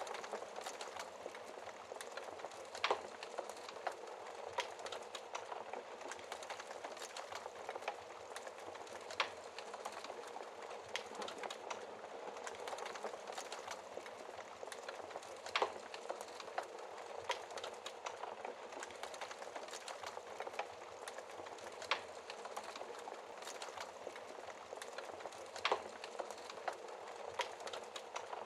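Wood fire in a fireplace crackling steadily: a continuous soft hiss with many small pops and a few louder sharp snaps scattered irregularly.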